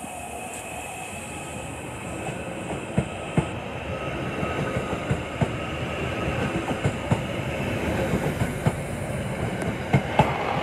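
Merseyrail Class 777 electric multiple unit running past along the platform, growing louder as it passes, with a faint electric whine and frequent irregular clicks from the wheels on the track.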